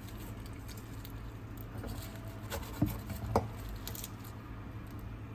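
Light crackling and tapping from handling the baked cheese börek on its tray, with two sharp knocks just before and just after three seconds in, over a steady low hum.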